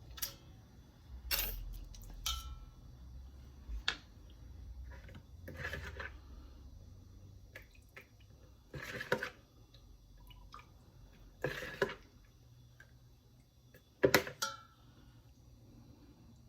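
Scattered clicks, taps and short handling noises from a meat injector and a raw whole chicken as marinade is injected into the meat, the loudest pair of knocks near the end.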